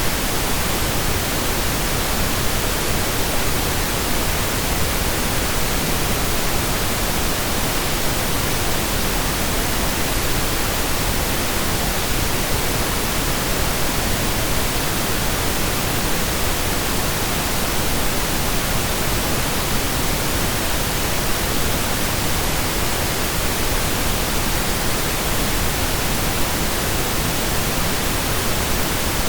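Steady synthesized pink noise, an even hiss like rain or a waterfall, unchanging throughout.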